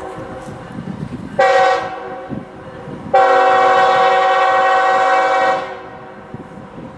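Diesel freight locomotive's air horn sounding a chord of several notes: a short blast about a second and a half in, then a long blast of about two and a half seconds starting about three seconds in.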